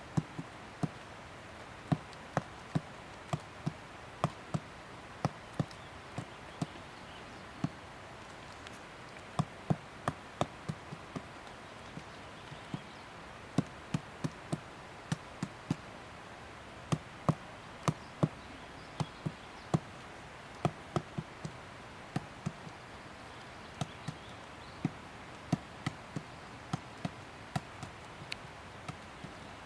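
Pileated woodpecker pecking into wood: sharp single knocks at an uneven pace, one to three a second, rather than a fast drumming roll.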